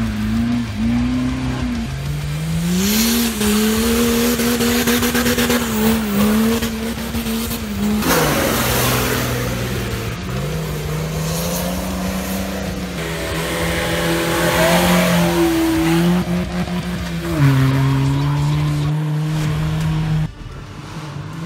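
Off-road 4x4 engines revving hard under load as the vehicles climb a dirt forest track one after another. The engine pitch holds high, then steps and glides up and down as throttle and gears change.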